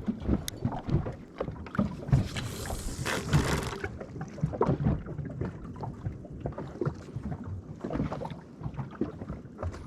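Water lapping and slapping against the hull of a small drifting boat, with scattered knocks and wind on the microphone. A rushing hiss swells about two seconds in and fades about two seconds later.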